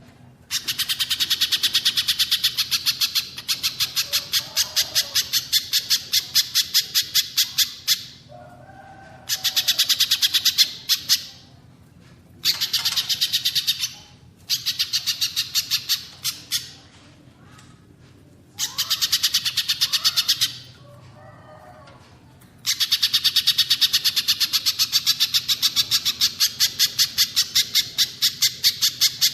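Recorded birdsong of a spiderhunter (pijantung pisang) and a cililin. One bird gives long runs of very fast, evenly repeated high, sharp notes lasting from one to several seconds each, broken by short pauses. In some of the pauses there are softer, lower calls.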